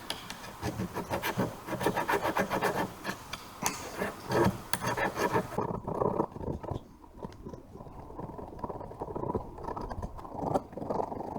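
Electrical cable terminals being scrubbed clean, a rapid, irregular scraping and rubbing that goes on throughout and sounds duller after about five seconds.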